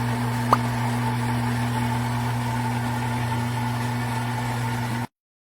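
Philips 3300 fully automatic espresso machine running a coffee cycle just after start is pressed, a steady mechanical buzzing hum. There is a sharp click about half a second in, and the hum cuts off suddenly about five seconds in.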